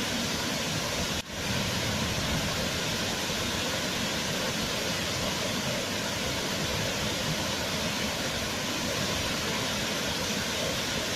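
Waterfall: a steady rush of falling water, with a brief dropout about a second in.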